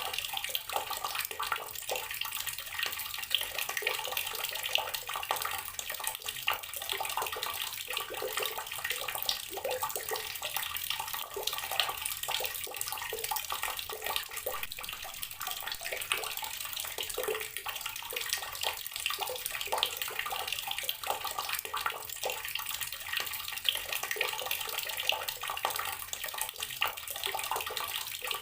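Water running steadily from an outdoor garden tap and splashing as it lands.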